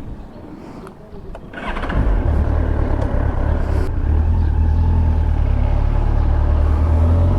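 2001 Yamaha FZS1000 Fazer's inline-four engine ticking over quietly, then about two seconds in the bike pulls away and the engine sound jumps up and holds loud and steady.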